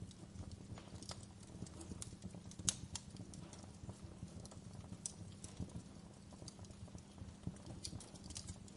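Wood fire crackling in a fireplace: irregular small pops and snaps over a low, steady rumble of burning, with one sharper pop about three seconds in.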